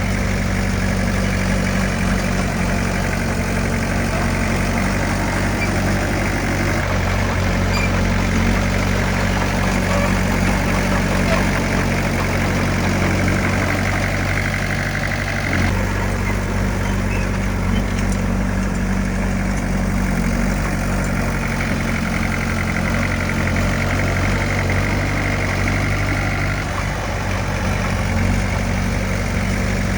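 Heavy construction machine's diesel engine running steadily, with a deep even hum; the engine note shifts slightly twice, about a quarter of the way in and again around halfway.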